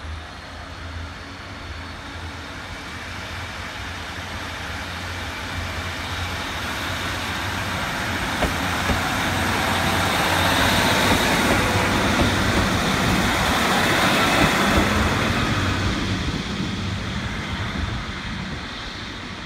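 A large vehicle passing by, its noise building over about ten seconds to a peak and then fading away.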